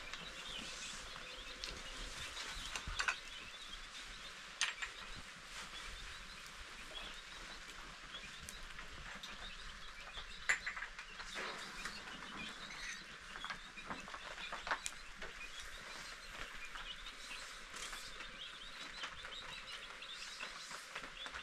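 Small birds chirping continually, with a few sharp knocks.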